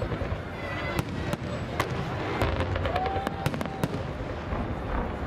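Aerial fireworks shells bursting overhead: a string of irregular sharp bangs and crackles over a steady low rumble.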